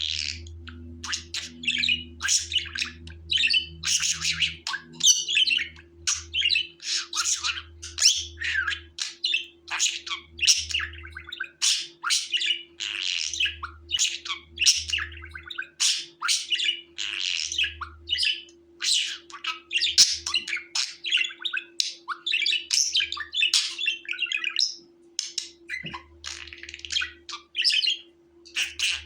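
Budgerigars chattering and warbling without a break: a dense run of quick chirps and squawks.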